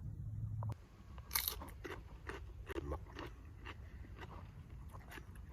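Close-up crunching and chewing of crisp food in the mouth, a string of short, sharp crunches. A steady low hum cuts off abruptly under a second in.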